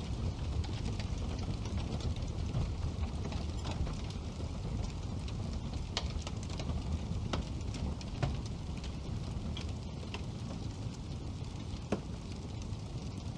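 Wood fire burning in a fireplace: a steady low rumble of flames with irregular crackles and a few sharper pops from the burning logs.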